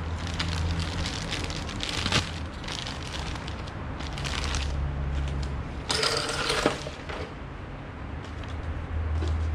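Plastic fuel pump module parts being handled and pressed into place on a fuel tank: scattered clicks, with a louder rustling crackle and a sharp snap about six to seven seconds in. A steady low hum runs underneath.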